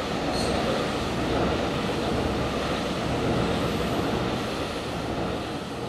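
Passenger train crossing a railway bridge overhead, its wheels on the rails making a steady rumbling rush, with a brief click about half a second in; the noise begins to fade at the very end as the train moves off.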